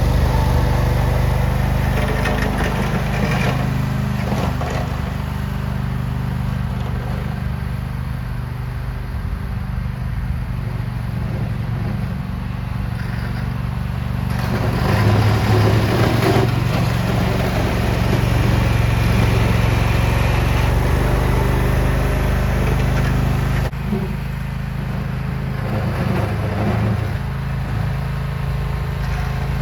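Lawn tractor's small engine running steadily as the tractor plows snow with a homemade front blade. The level rises and falls a little, with a brief dip about two-thirds of the way through.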